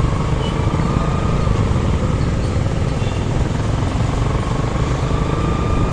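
Suzuki Gixer SF single-cylinder motorcycle running at a steady pace under way, its engine and road noise mixed with wind rumble on the rider's microphone.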